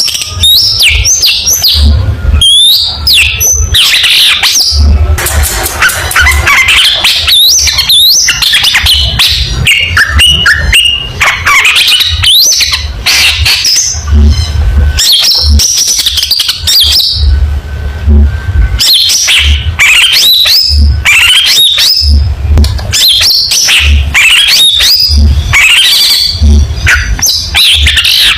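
Long-tailed shrike (cendet) singing without a break: a fast, varied run of sweeping whistles, chatters and harsh notes. A low rumble comes and goes underneath.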